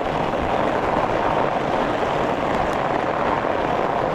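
Steady, gritty rushing of a fatbike riding across a frozen, snow-covered lake: the fat tyres on crusty snow and ice, mixed with strong wind on the microphone.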